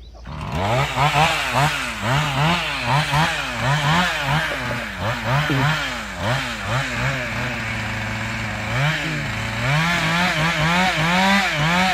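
Chainsaw engine revved up and down over and over, its pitch rising and falling about twice a second, with a few seconds of steadier running in the middle.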